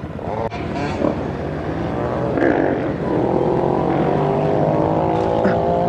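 Pit bike engine running, settling to a steady, even note from about halfway in.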